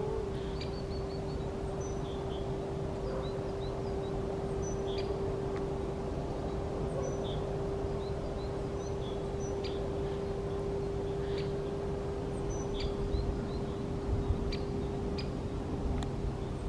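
Small birds chirping and calling in short, scattered notes, with a few sharp clicks, over a steady hum and a low rumble.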